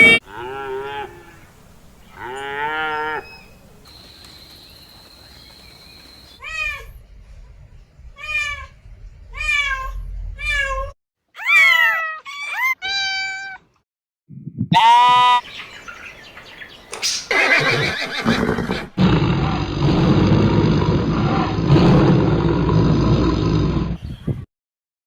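A string of different animal calls, one clip after another. First come a few pitched cries, then a run of five short repeated calls and some gliding calls. It ends in a long, rough roar of about five seconds.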